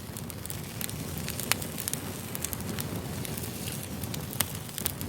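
Campfire crackling: a steady low rumble of burning wood with scattered sharp pops, the loudest about a second and a half in and again near the end.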